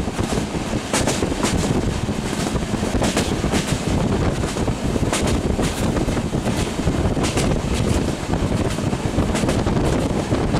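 Train running along the track, heard from an open window: a steady rumble of wheels on rail with wind buffeting the microphone. Now and then a short sharp clack cuts through.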